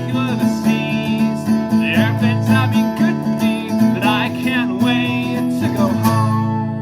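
Acoustic guitar music, ending on a chord left to ring and fade near the end.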